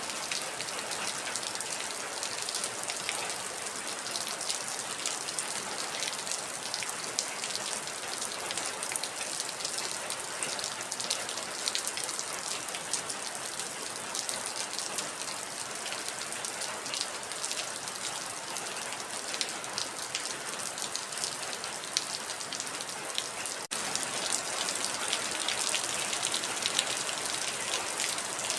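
Heavy rain falling steadily, a dense hiss of countless drops with many small taps and patters. About three quarters of the way through it cuts out for an instant and comes back slightly louder.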